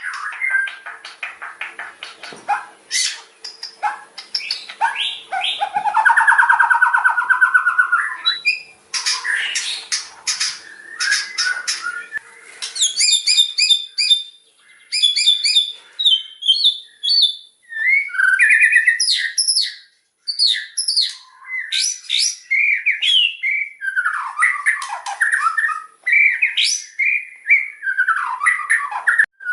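White-rumped shama (murai batu) singing loudly in fast, varied phrases of rapid trills, sharp whistled notes and sweeping calls, with a harsher rattling passage about six to eight seconds in.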